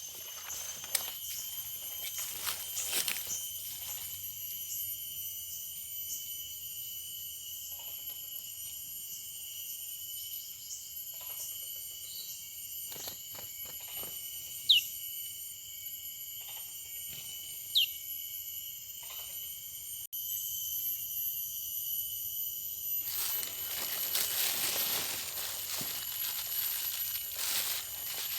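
Outdoor ambience with a steady high-pitched drone, scattered soft rustles and ticks, and two sharp, short falling bird chirps about three seconds apart around the middle. Near the end a louder rustling hiss comes in.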